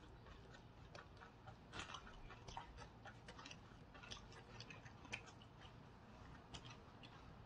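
Faint chewing and wet mouth sounds, a scatter of soft irregular clicks, from people eating close to the microphone.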